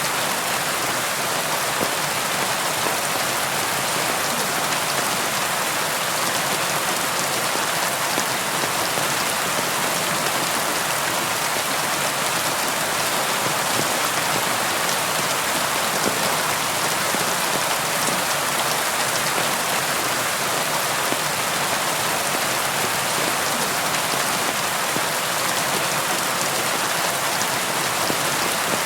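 Steady rain falling and pattering on a surface, an even hiss at constant strength with no thunder.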